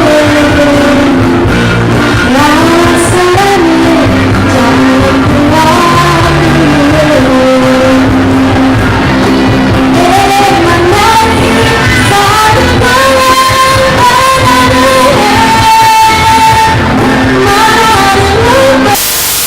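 A school music ensemble singing a melody over instrumental accompaniment, recorded loud and with poor sound quality.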